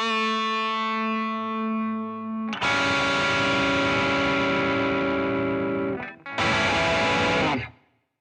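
Electric guitar played through the BOSS ME-90's AIRD 'TWIN COMBO' preamp, its model of a Fender Twin Reverb amp. A held note rings out, then a chord is struck about two and a half seconds in and held. After a brief stop, another chord is struck and then cut off suddenly near the end.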